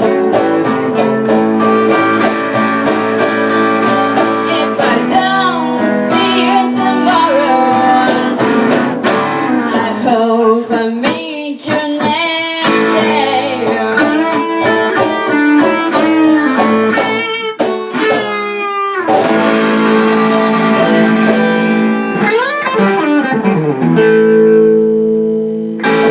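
Live blues guitar playing an instrumental passage, with notes that glide in pitch partway through, ending on a sustained held chord.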